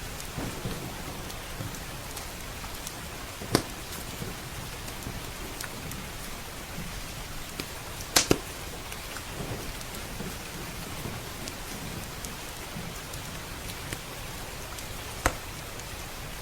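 Steady rain with a wood fire crackling, its logs giving a few sharp pops: one about three and a half seconds in, a loud double pop about halfway through, and another near the end.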